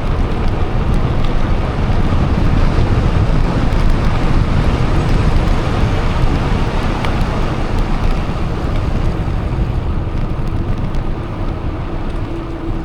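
Steady wind rush and low rumble on the microphone from riding an electric mountain bike, easing slightly near the end.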